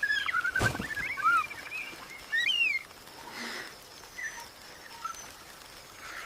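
Birds calling: short chirps and whistled notes that slide up and down in pitch, busiest in the first three seconds and sparser after, with one sharp click just under a second in.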